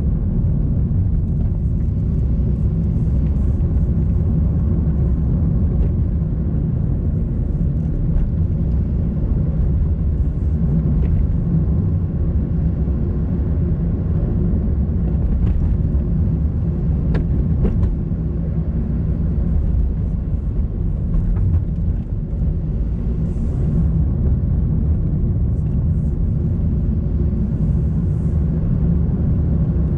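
A car driving along a road: a steady low rumble of engine and tyre noise, with a few faint ticks.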